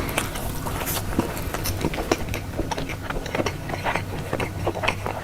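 Close-miked eating: irregular crunching and chewing clicks from biting into and chewing food, over a steady low hum.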